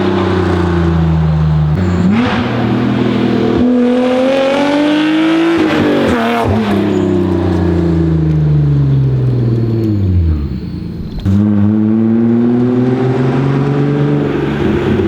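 Straight-piped BMW E36 M3 inline-six running hard: the revs fall off the throttle, climb under acceleration after a sharp change about two seconds in, fall away for several seconds with a brief quieter dip, then climb again after another sharp change near the end.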